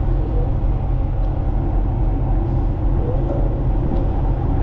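Ship's diesel engine running, a steady loud low rumble throughout the vessel.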